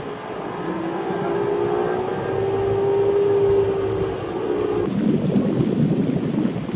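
A motor's steady drone, dipping and then rising slightly in pitch, gives way abruptly about five seconds in to a low, rough rumble of wind buffeting the microphone.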